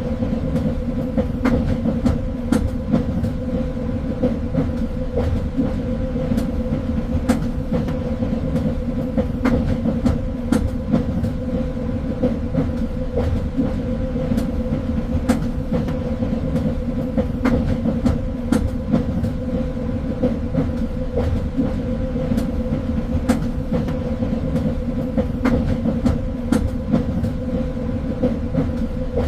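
Train running along the track: a steady rumble with a low, even hum, and frequent irregular clicks and knocks from the wheels on the rails.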